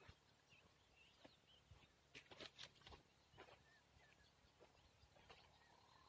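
Near silence: faint outdoor ambience with scattered short bird chirps and a few soft clicks about two to three seconds in.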